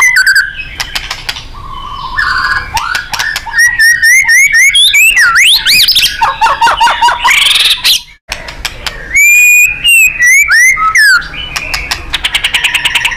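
White-rumped shama (murai batu) singing loudly: a varied run of whistled phrases, rapid clicking note series and sweeping rising and falling glides, broken by a brief pause about eight seconds in.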